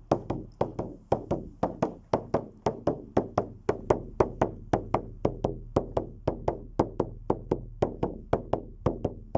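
Fast, even beating, about four strikes a second, each strike with a short ringing decay. A low steady hum runs underneath.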